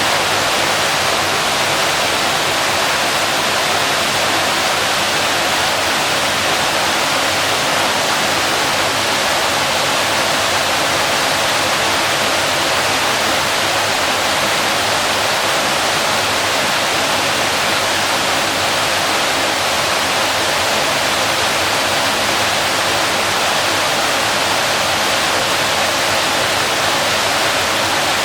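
Waterfall: a steady, loud rush of falling water, even and unchanging, with most of its energy in the upper-middle and high range.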